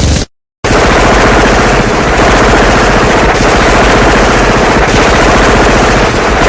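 Sound-effect recording of sustained rapid machine-gun fire, a loud, dense, unbroken stream of shots. It starts about half a second in, after the previous effect cuts off into a moment of silence.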